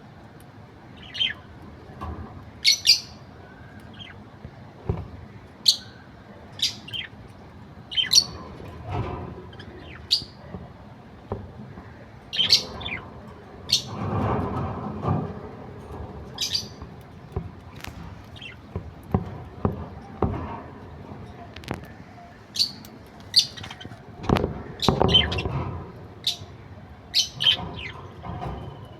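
Pet budgerigar chirping and chattering: many short, sharp high chirps at irregular intervals, with two longer stretches of lower, busier warbling chatter, one about halfway through and one a few seconds before the end.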